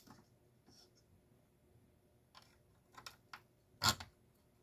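A few scattered clicks and knocks as the parts of a garage door opener are handled during disassembly, the loudest a sharp knock near the end.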